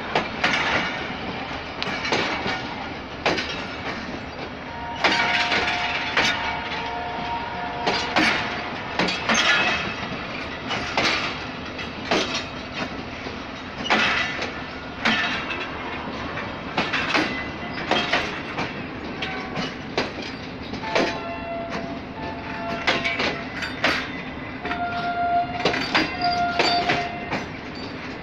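Pakistan Railways Tezgam Express passenger coaches rolling slowly past in reverse, their wheels clacking over rail joints about once a second. A high steady tone sounds for a few seconds about five seconds in and again near the end.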